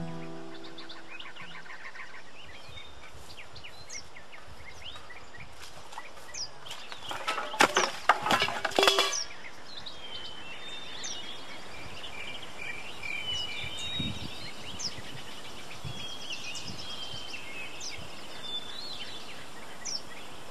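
Birds chirping over steady outdoor background noise, with a quick cluster of loud sharp knocks and rustles about seven to nine seconds in. The last guitar notes of the music fade out at the very start.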